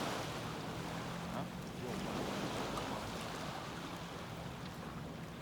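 Shoreline ambience: waves and wind as a steady, even noise, with a faint low steady hum underneath.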